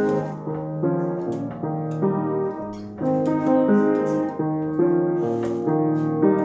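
Piano music playing, a melody of notes and chords that change every half second or so.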